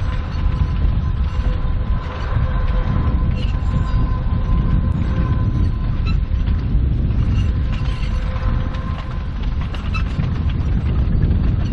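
A 2 ft gauge sugar cane train running: a steady low rumble with many small clicks and rattles, and a steady whine that fades out about nine seconds in.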